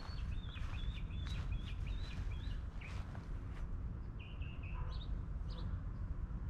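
A songbird chirping: a quick run of warbled notes, then a shorter phrase about four seconds in, over a steady low rumble of wind on the microphone.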